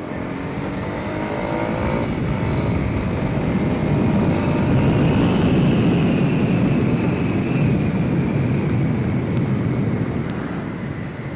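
Honda CB300R single-cylinder motorcycle engine accelerating under way, its note climbing over the first two seconds. After that the riding noise grows louder toward the middle and eases off near the end.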